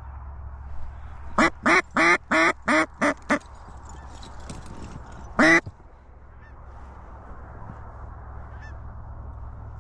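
Mallard duck call blown by a hunter: a string of six quick, loud quacks, then one longer quack a couple of seconds later, calling to incoming ducks.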